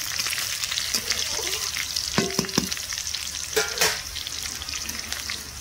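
Cumin seeds and green chillies frying in hot oil, a steady crackling sizzle, while a spatula stirs them. There are a few metallic clinks and scrapes of the spatula against the pan about two seconds in, and one more near four seconds.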